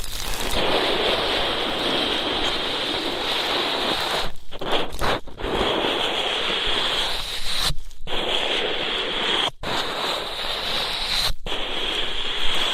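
Ear-cleaning ASMR sound: an ear-cleaning tool rubbing and scratching against a microphone, giving a loud, steady rushing noise that drops out abruptly for a moment several times.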